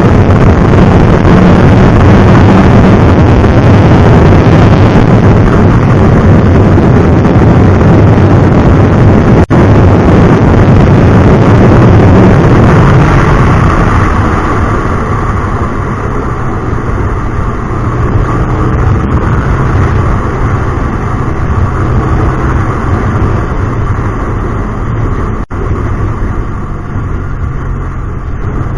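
Hyosung GT250R's V-twin engine with a Solfer aftermarket exhaust, running loud as the bike rides in traffic, with a dense rush of noise over it. It eases off and gets somewhat quieter a little under halfway through.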